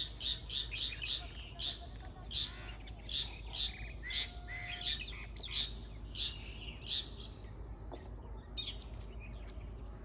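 Small birds chirping, a string of short sharp calls about two a second, dropping to fainter scattered chirps after about seven seconds.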